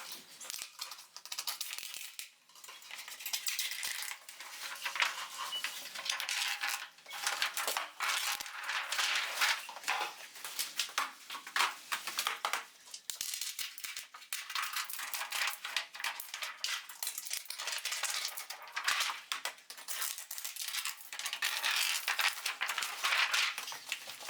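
Plastic film being peeled off and crumpled, a dense crackling rustle with many small clicks that comes and goes in waves.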